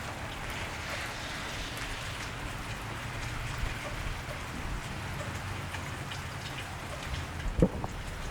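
Steady cold rain falling on a wet street, an even hiss over a low steady rumble. A few louder drops strike close by about seven and a half seconds in.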